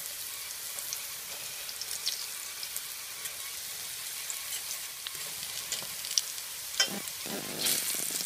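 Potato wedges frying in hot canola oil in a skillet: a steady sizzle with small crackles, the second fry at about 400 degrees as they brown. A few sharp clicks of a metal fork on the pan come near the end as the fries are turned.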